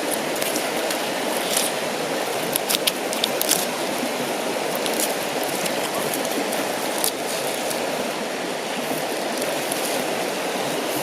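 River water flowing steadily, with a few sharp clicks about two and a half to three and a half seconds in.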